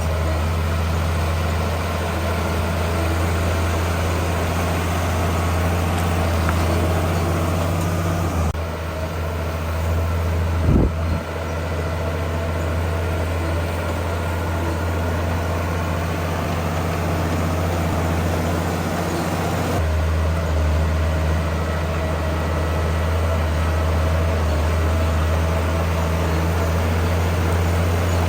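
Heavy diesel engine of earthmoving machinery running steadily with a deep, constant drone. The drone shifts abruptly twice, and there is a single short knock about eleven seconds in.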